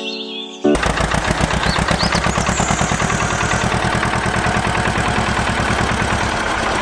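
An engine-driven machine starts up suddenly about a second in and runs loudly with a fast, even knocking rhythm.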